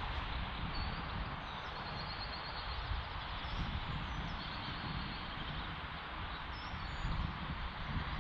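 Wind buffeting the microphone in an uneven low rumble, with faint bird chirps in the background.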